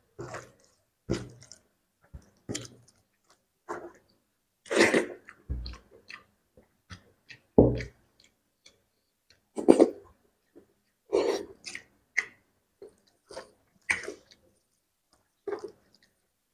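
Close-miked chewing and wet mouth smacking of someone eating spicy fish curry with gravy: irregular short smacks and clicks, a few heavier ones with a low thud.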